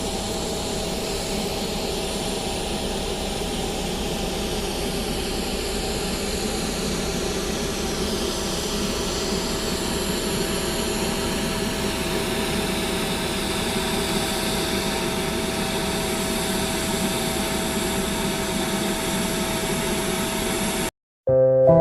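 Boeing 777-300ER's GE90 turbofan jet engines running at low power, a steady rumble with a constant hum and a faint high whine. It cuts off suddenly near the end and music begins.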